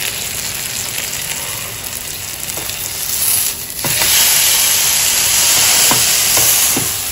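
Semolina uttapam sizzling in oil on a pan. About four seconds in it is flipped with a spatula, and the sizzling grows louder as the vegetable-topped side meets the hot pan, with a few light spatula knocks.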